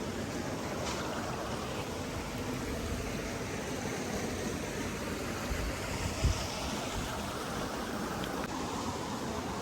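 Steady rushing of flowing water, like a stream, with a brief low thump about six seconds in.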